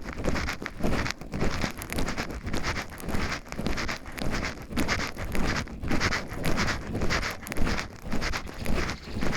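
Footsteps of someone walking on a forest path, crunching and rustling at about two steps a second.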